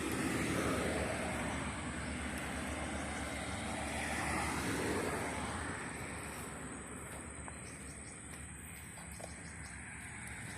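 Small 120cc dirt bike engine running at a distance, its sound swelling and fading twice, with a steady high insect drone.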